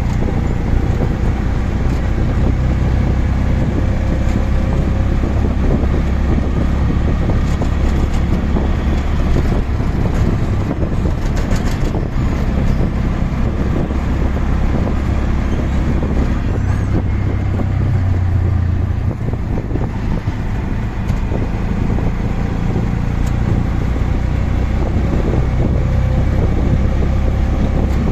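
Auto rickshaw engine running steadily with a low hum during a ride, mixed with road and traffic noise; the engine note shifts briefly a little past the middle.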